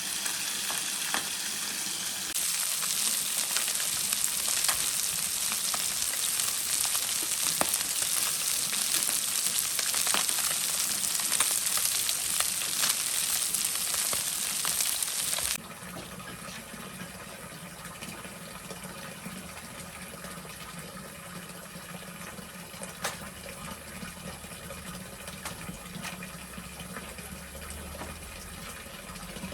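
Food sizzling in hot oil in a pan, a dense hiss that cuts off abruptly about halfway through. It gives way to a quieter low hum with a few light clicks.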